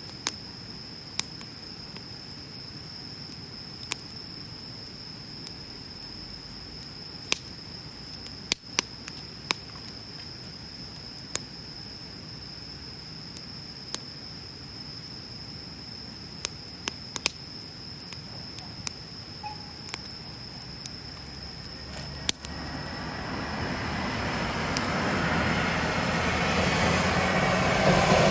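Wood bonfire crackling, with sharp single pops scattered irregularly over a steady high-pitched whine. About three-quarters of the way through, a distant engine rumble begins and swells steadily louder, becoming the loudest sound by the end.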